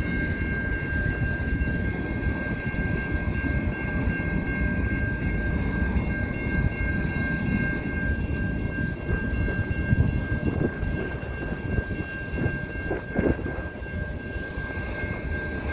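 Freight cars of a slow mixed freight train rolling past: a steady rumble and clatter of steel wheels on the rails, with a few louder clunks late on. A steady high-pitched ringing tone runs over it throughout.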